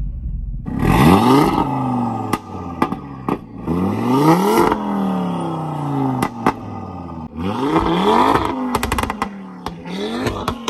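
Audi RS3's 2.5-litre TFSI inline five-cylinder, stage 1 with a de-catted exhaust, free-revved about four times with the exhaust valves open. Each rev rises sharply and falls back, with sharp pops and crackles as the revs drop.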